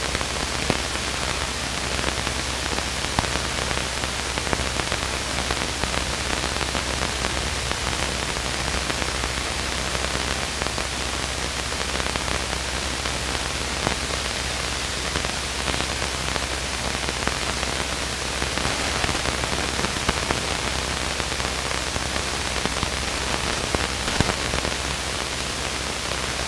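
Steady in-flight cockpit noise of a light airplane: an even hiss over a low, steady drone, with a few faint ticks.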